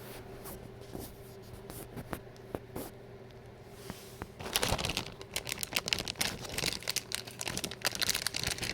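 Plastic packaging being handled and crinkled while someone struggles to open it: a few scattered crackles at first, then dense, continuous crinkling from about halfway through.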